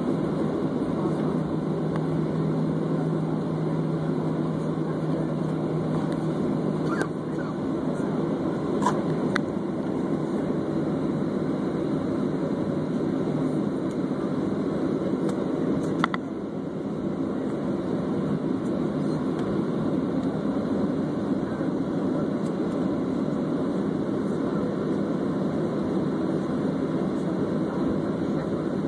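Steady cabin noise of a jet airliner with its engines running: an even low rumble, with a steady low hum through the first few seconds. A few faint clicks come around a third and half of the way in.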